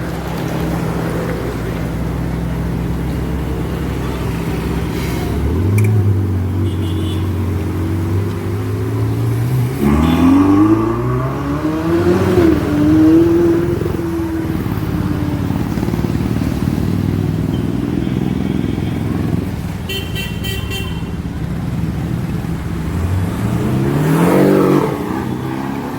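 Supercar engines idling, then revving up twice, with the pitch rising about ten seconds in and again near the end. A car horn toots briefly about twenty seconds in.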